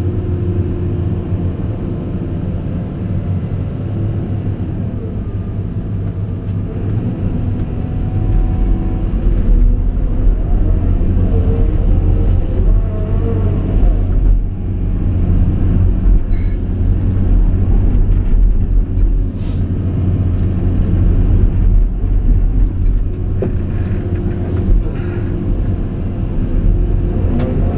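Caterpillar 349E excavator's diesel engine running steadily; its low rumble deepens and grows louder about eight seconds in, as under load, with a few short knocks over it.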